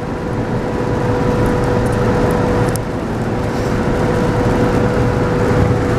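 Engine and road noise heard from inside a truck's cab while driving, a steady rumble with a steady whining tone over it and a brief knock about three seconds in.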